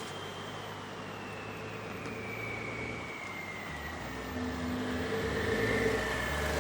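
Car engine running, with a high whine that falls slowly in pitch throughout; the engine grows louder over the last couple of seconds.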